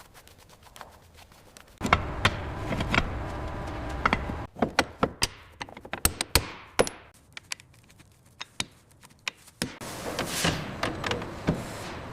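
A run of metallic clanks, knocks and rattles, with two longer stretches of rough scraping noise, one about two seconds in and one near the end.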